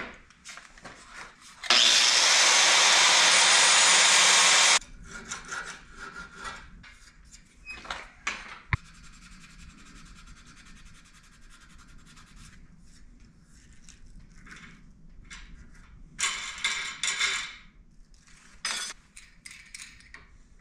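Shop power tool used for cleaning up a weld on a steel spur: a loud, steady abrasive rush for about three seconds that starts and stops abruptly, followed by scattered light scraping and clicks from the metal being handled and worked, with a shorter burst of abrasive noise near the end.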